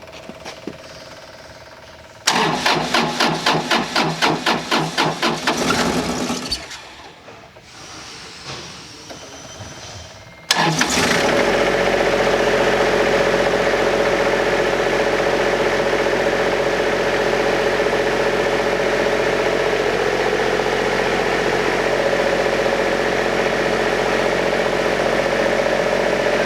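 Car engine cranking on the starter with a rapid pulsing for about four seconds without catching. After a short lull it fires about ten seconds in and settles into a steady idle, its first start with the newly fitted replacement part.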